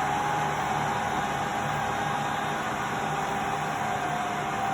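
State UltraForce gas water heater firing: its combustion blower and burner running with a steady rushing noise and a thin whine that sinks slightly in pitch near the end.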